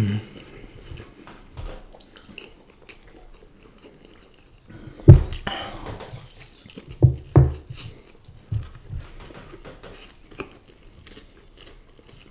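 Close-miked mouth sounds of people eating french fries: chewing and biting with soft wet clicks, and a few louder low thumps about five and seven seconds in.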